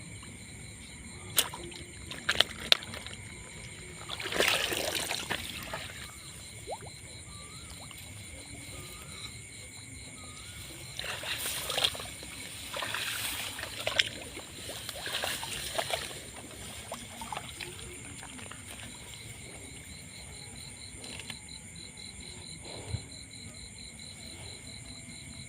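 Water splashing and sloshing in two stretches, about four seconds in and again from about eleven to sixteen seconds, with a few sharp clicks about two seconds in. A steady high-pitched animal chorus runs underneath.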